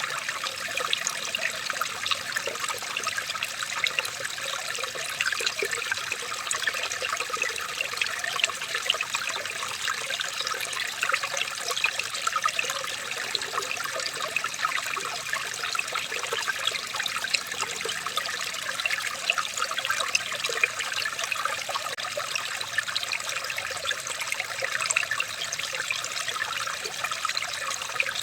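Water trickling and babbling steadily, an unbroken stream of many small splashes.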